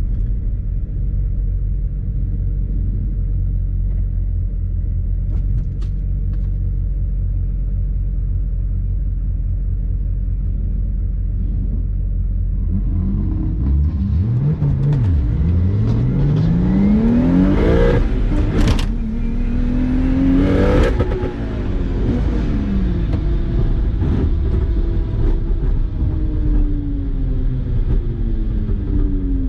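BMW 135i's single-turbo N54 inline-six idling with a low, steady rumble, then, a little under halfway through, revving up hard through the gears on a drag-strip pass. Two sharp noises come near the top of the pull, then the revs wind down slowly as the car slows.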